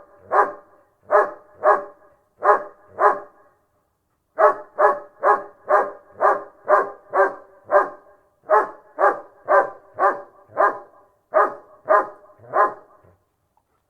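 German Shepherd barking steadily and fast, about two barks a second, in runs of several barks with short pauses between them. The barking stops shortly before the end.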